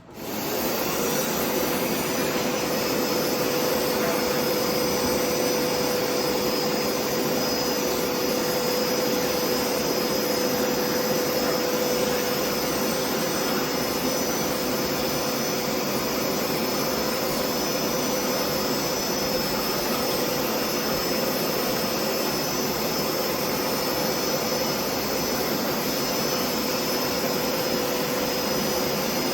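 Hoover PowerScrub Deluxe carpet cleaner switching on and running steadily while scrubbing and suctioning upholstery through its hand attachment: a steady motor whine and rush of suction with a constant hum tone.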